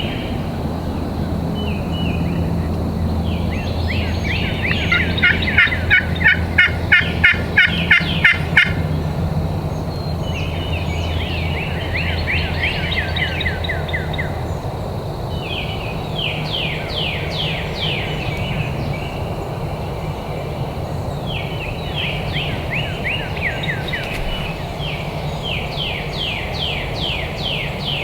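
Wild birds singing in quick trilled phrases of falling notes, repeated throughout. About five seconds in comes a louder run of about ten evenly spaced calls, close to three a second, that stops after about four seconds.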